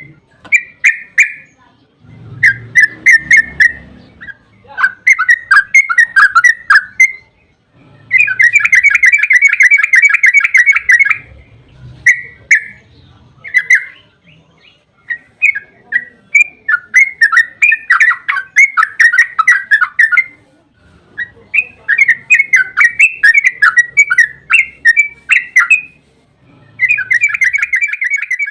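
Yellow-vented bulbul (trucukan) singing loud, rapid, bubbly chattering phrases, one to three seconds long, separated by short pauses. Its long 'ropel' song is used as a lure to make other trucukan answer.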